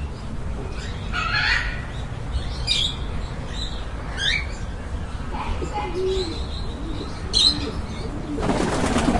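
Caged birds at a bird market calling and squawking, with short sharp calls every second or so over a low background hum. Near the end comes a brief loud rushing noise.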